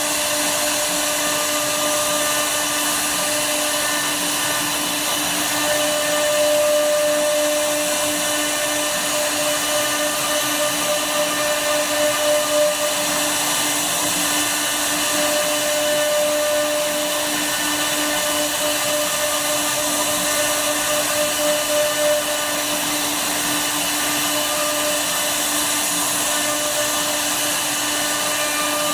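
CNC router spindle running steadily while its bit cuts wood, a constant whine over a whirring noise, with small swells in level now and then.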